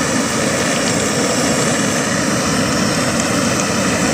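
Gas torch burner screwed onto a gas canister, burning with a steady, even rushing noise.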